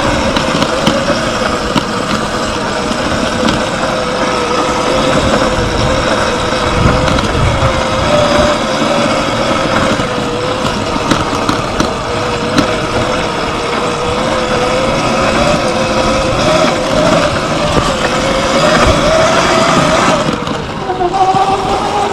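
Sur-Ron Light Bee X electric dirt bike riding through sand: the motor's whine holds near one pitch, wavering with the throttle, over rough wind and tyre noise with scattered knocks. Near the end the whine changes pitch as the speed changes.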